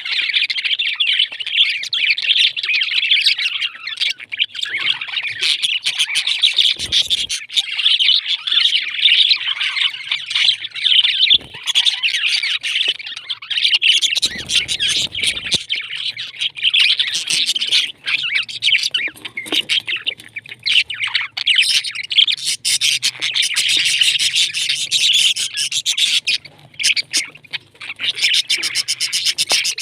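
Pet parrots chirping and chattering without a break, many high calls overlapping. A brief low rumble comes about 14 seconds in.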